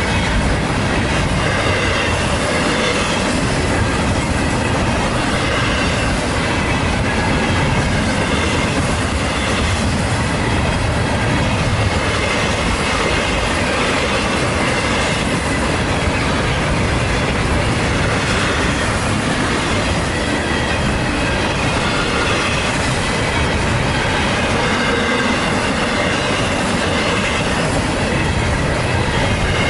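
Double-stack container cars of a CSX freight train rolling past at full track speed: steady, loud wheel-on-rail noise, with a few thin high tones over it.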